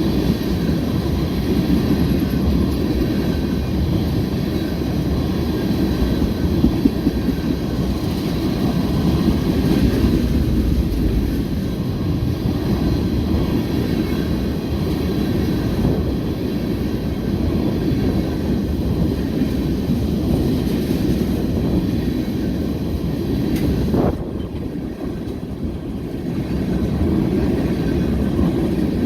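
A long freight train of tank cars rolling past: a steady rumble of steel wheels on rail, easing briefly near the end.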